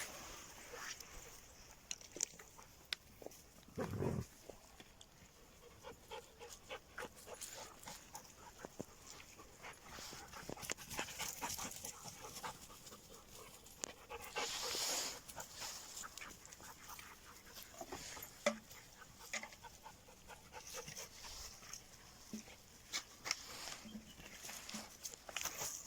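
A Belgian Malinois dog panting, with scattered clicks and short rustling bursts throughout, a low thump about 4 s in and a longer hissy burst about 15 s in.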